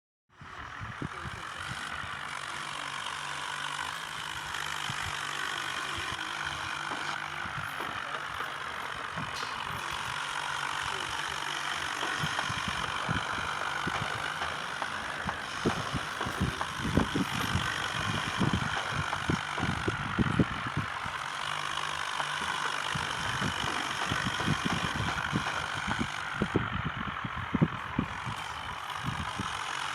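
Swaraj tractor's diesel engine running steadily under a constant low hum. Irregular low thumps come through it and grow more frequent in the second half.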